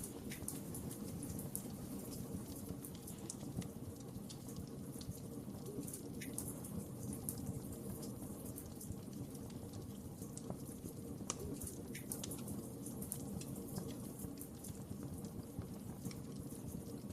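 Fireplace fire crackling: a steady low rush of flames with many scattered sharp pops and snaps at irregular intervals.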